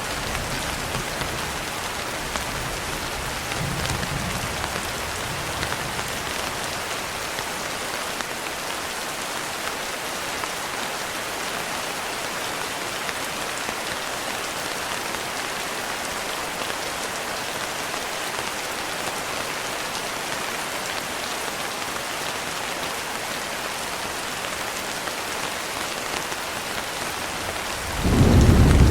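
Steady rain, with a faint low rumble of thunder in the first few seconds and a loud thunder rumble breaking in near the end.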